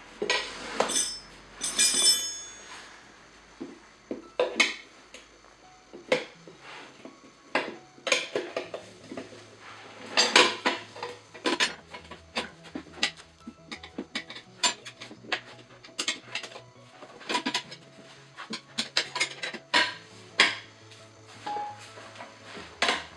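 Steel tire irons clinking and scraping against a spoked motorcycle wheel rim as the tire bead is levered over the rim edge: irregular metallic clinks and knocks, some in quick clusters.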